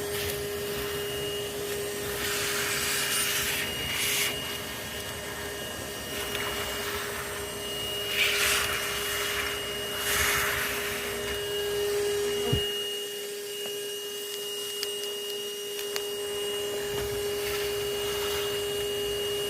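Bee vacuum running with a steady whine while collecting bees from a hive, with several louder hissing surges and a sharp click about halfway through.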